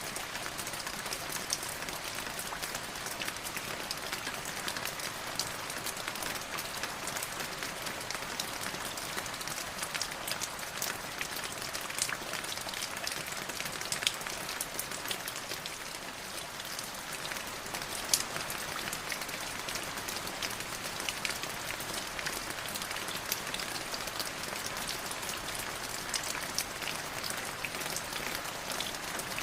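Light drizzling rain falling steadily, an even patter of drops with scattered sharper drip clicks, a few louder single drops now and then.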